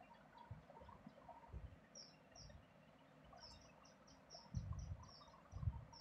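Faint chirping of small birds: two short high chirps about two seconds in, then a quick run of chirps from about three and a half seconds in. A few low thuds come near the end.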